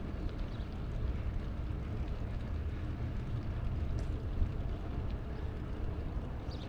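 Steady low rumble of wind buffeting the microphone and road noise from a moving bicycle, with a few faint clicks and a sharper click about four seconds in.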